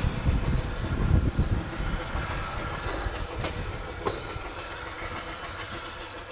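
Steam-hauled train running past, a heavy low rumble and wheel clatter that fades as it moves away, with two sharp clicks a little over halfway through.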